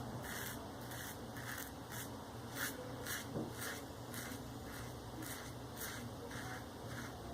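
Maggard V3A safety razor with a Shark Super Chrome blade scraping stubble off a lathered face in short, quick strokes, about two or three a second.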